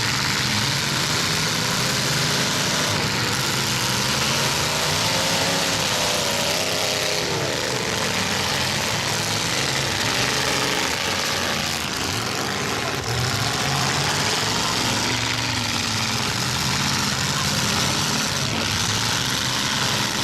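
Several demolition derby cars' engines running and revving hard, their pitch rising and falling over and over as the cars back up and charge.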